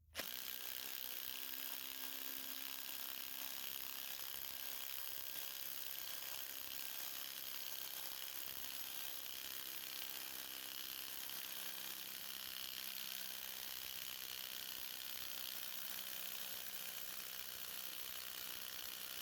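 Ryobi PBLID02 brushless impact driver hammering steadily and without a break while trying to drive a large lag bolt into dense wood, under heavy load.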